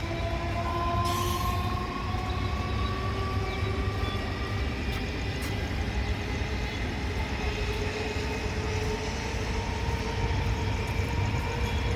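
A train running at the station, with a steady low rumble and whining tones that rise slowly in pitch.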